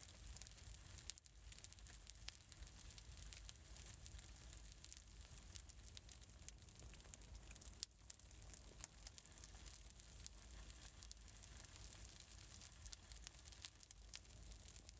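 Wood fire crackling faintly in a fireplace: a steady soft hiss with frequent small pops and snaps.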